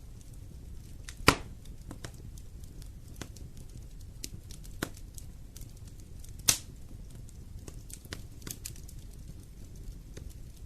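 Fire in a fireplace crackling: scattered small snaps over a low steady rumble, with two loud pops, one about a second in and one past the middle.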